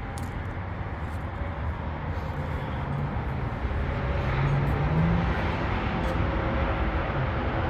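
A motor vehicle's engine running nearby, a low hum that rises a little in pitch about halfway through and slowly gets louder.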